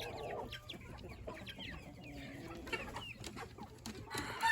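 A flock of chickens clucking and chirping in short, scattered calls. About four seconds in, a rooster starts a long crow.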